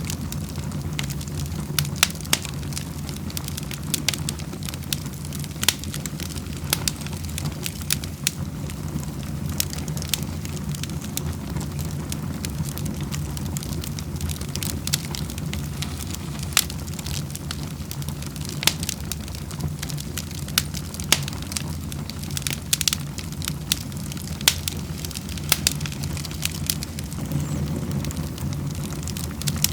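Wood fire crackling in a fireplace: irregular sharp pops and snaps, a few every second, over a steady low rumble of burning.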